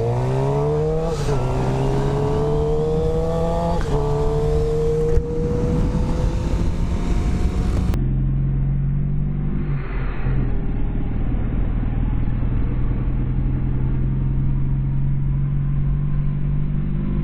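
Suzuki GSX-R 750 sport bike's inline-four engine with an Akrapovic slip-on exhaust, accelerating hard. Its pitch climbs and drops back twice at upshifts. After a cut about eight seconds in, the engine holds a steady drone.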